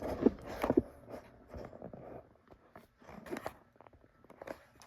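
Tripod and camera being handled as the tripod is stood up: a run of irregular clicks, knocks and rustles.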